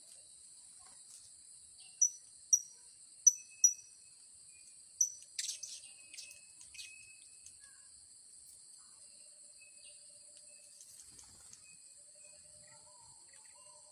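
A blue-crowned hanging parrot (serindit) gives five sharp, high, short chirps over about three seconds, followed by a few quieter chirps. Behind it runs a steady high insect drone.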